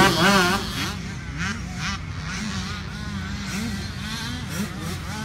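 Motocross dirt bike engines on the track, revving up and down over and over as riders work the throttle; loudest at the start, then quieter and more distant.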